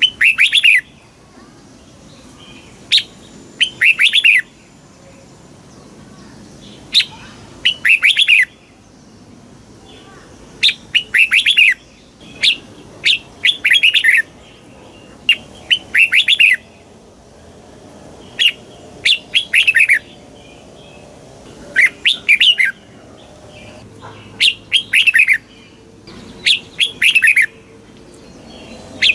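Red-whiskered bulbul singing: short, bright, whistled song phrases repeated every second or two, with brief pauses between them.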